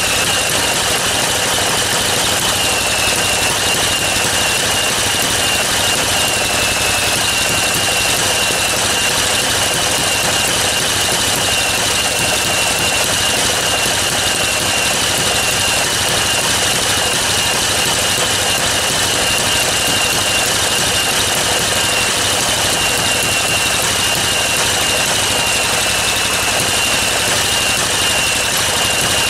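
Small experimental engine rig running steadily, a constant high-pitched whine over an even mechanical clatter.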